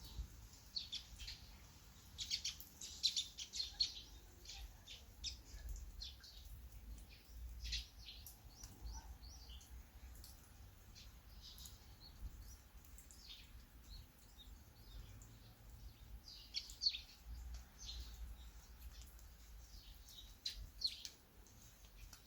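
Small birds chirping in short, high, repeated calls, busiest in the first few seconds, over a faint low rumble.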